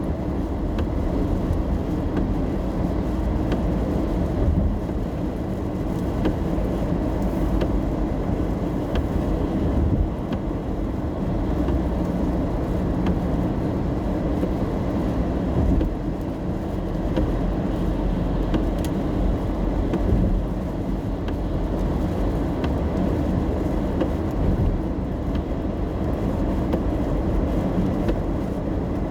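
Steady low rumble of tyre and engine noise inside a car cabin while driving on a wet road, with a few faint scattered ticks.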